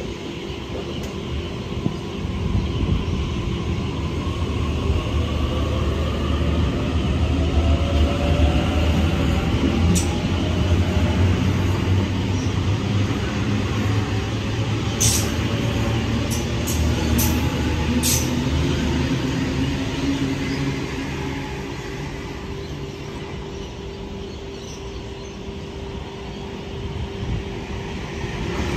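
A train running past with a steady low drone and a fainter whine that slowly rises in pitch as it gathers speed. A few sharp clicks or squeaks of wheels on rail come about a third of the way in and again past the middle.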